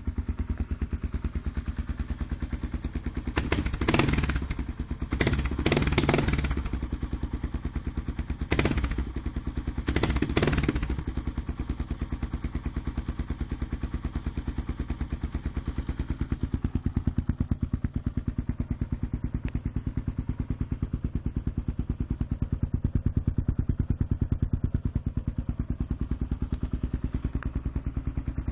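Kawasaki KLR650 single-cylinder four-stroke engine running through a DG aftermarket exhaust: a steady pulsing idle, with five quick throttle blips in the first eleven seconds, then idling on.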